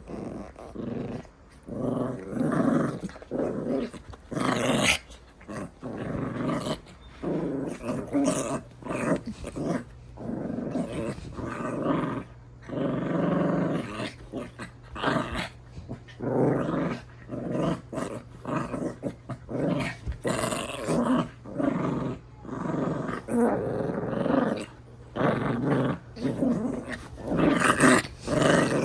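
Two dogs growling in rough play, mouth-wrestling, in a long run of short growls with brief pauses between them.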